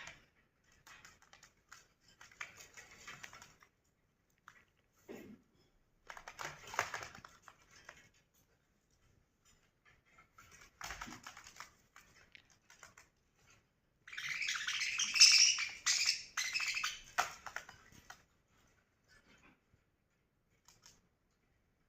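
Budgerigars chattering in short, scratchy, clicky bursts, broken by pauses. The chatter is loudest and busiest for about four seconds past the middle.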